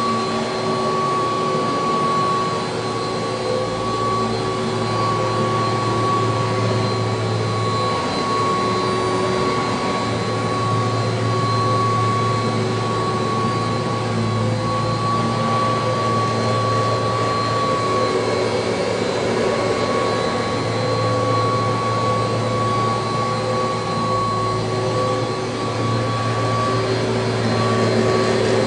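1985 Kirby Heritage II upright vacuum cleaner running steadily, its motor giving a constant high whine over a broad rushing noise.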